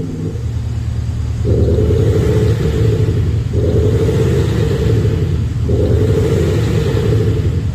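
BMW X6 40d's diesel straight-six with an Xhaust electronic active exhaust sound system playing a synthetic V8-style exhaust note: a steady, deep rumble at a constant pitch, with higher tones dropping out and coming back about every two seconds.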